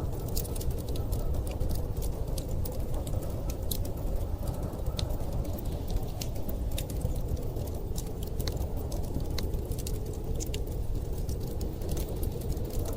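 Wood fire crackling in a fireplace, with many scattered small pops over a steady low rumble of blizzard wind.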